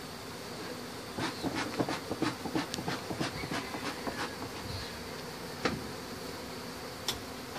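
Honey bees of a disturbed colony buzzing steadily. Scattered clicks and crackles come through in a run from about a second in, with a couple more single clicks later.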